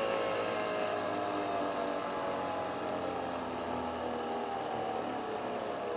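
Nespresso VertuoNext coffee machine brewing: the motor spinning the capsule gives a steady whir whose pitch slowly falls.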